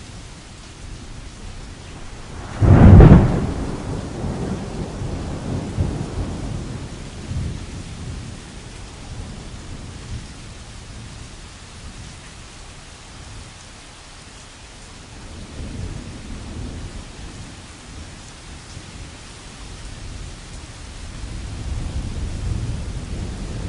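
Steady rain on canvas with thunder: a sudden loud thunderclap about three seconds in that rolls off over several seconds, a softer rumble midway, and more rumbling building near the end.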